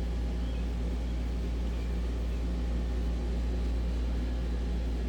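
Steady low hum of a running motor or fan, with no change in level.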